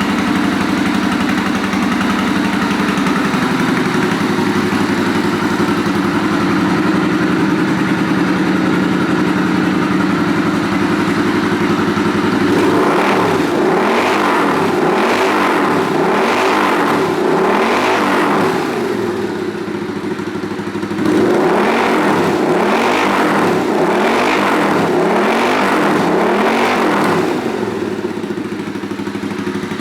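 Suzuki VS800 Intruder's 805 cc V-twin engine idling steadily, then blipped repeatedly, about once a second, in two runs of five or six revs with a short drop back to idle between, before settling to idle again.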